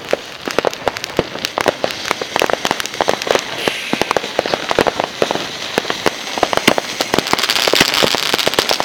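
Fireworks crackling: a dense, irregular stream of sharp pops, with a hiss building up near the end.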